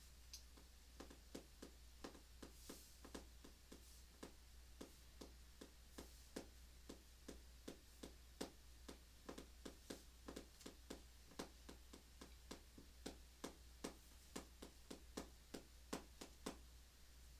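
Faint, steady run of light taps from a pen or pencil on paper while drawing, about two or three a second, stopping shortly before the end.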